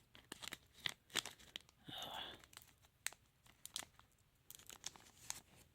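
A trading-card packet wrapper being torn open and crinkled, and the cards handled: a string of sharp crackles and clicks, with a brief rustle about two seconds in.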